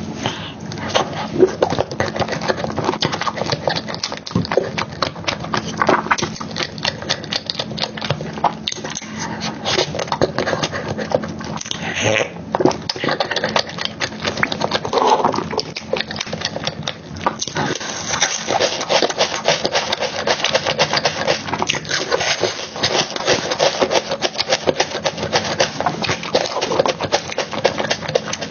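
Close-miked chewing and mouth smacking on a soft chocolate cake and cream dessert: a dense run of quick, wet clicks.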